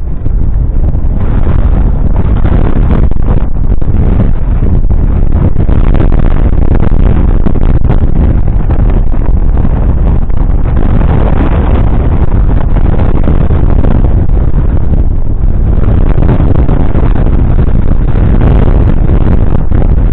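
Fendt 942 Vario's 9.0-litre six-cylinder diesel running steadily under load while pulling a Lemken Karat 12 cultivator, with wind buffeting the microphone.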